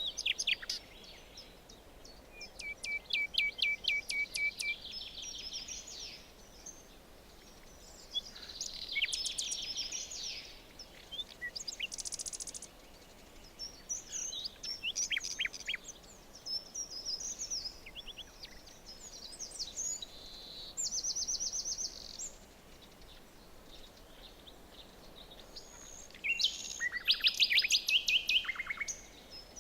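Several songbirds singing and calling in a forest: a mix of chirps, short whistled notes and rapid trills coming and going, over a faint background hiss. The loudest burst of song comes near the end.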